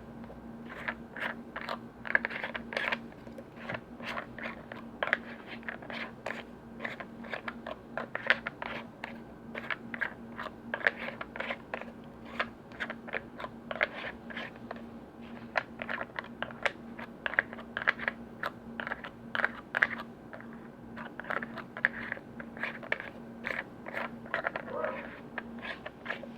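Irregular tapping and clicking on lids and containers, a few sharp taps a second, over a steady low hum.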